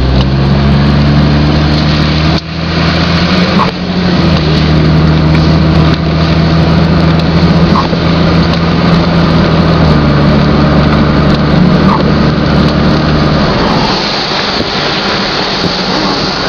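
Car engine running steadily while driving on a flooded, rain-soaked street, over a constant hiss of wet road and water under the tyres. The engine note shifts a little about two seconds in and again around ten seconds, then drops lower near the end.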